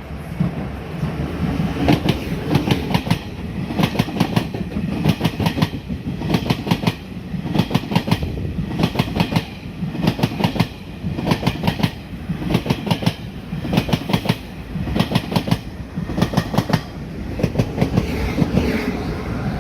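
Tze-Chiang express train passing at speed, its wheels clacking over the rail joints in regular paired clicks about once a second over a steady running rumble.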